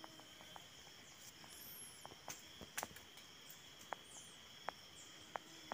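Faint forest ambience: a steady high-pitched insect drone, with a few thin, very high chirping calls and scattered light ticks and clicks.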